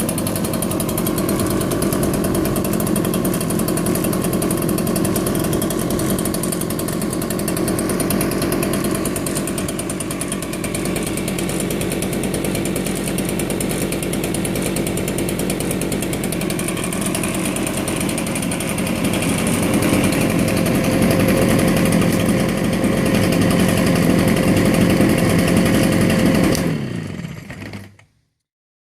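Echo PB-770H backpack leaf blower's two-stroke engine running steadily, getting a little louder about two-thirds of the way through. Near the end it is shut off and winds down to a stop.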